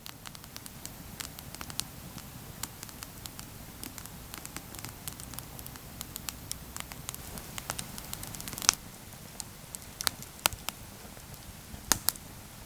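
Wood campfire crackling steadily, with scattered sharp pops, several louder ones in the second half.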